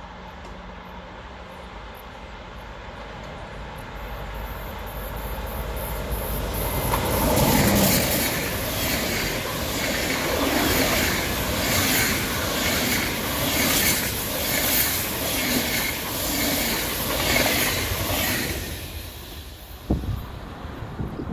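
DB Intercity train hauled by a Class 101 electric locomotive approaching and passing at speed. A rising rush, loudest about seven seconds in, then the coaches go by with a regular clatter of wheels about once a second before fading away. A short thump comes near the end.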